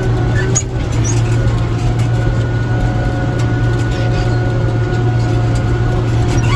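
Tractor engine running at a steady speed, a constant low hum with higher steady tones above it and light clicks and rattles.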